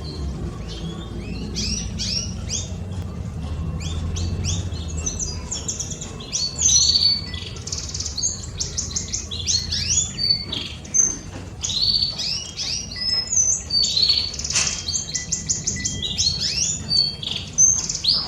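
Pet canaries singing: fast, dense runs of high chirps and trills that grow louder and busier about a third of the way in. A low steady rumble of wind or distant traffic sits underneath in the first half.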